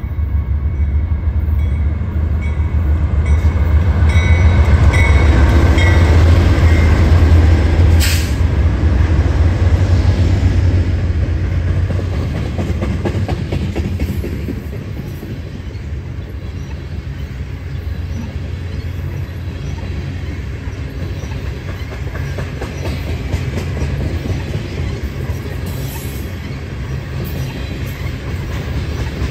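A train passing close by. A deep rumble of the locomotives' engines is loudest about four to eight seconds in, with a single sharp knock near the end of that stretch. Then the cars roll past with a steady rush and rapid clicking of wheels over the rails.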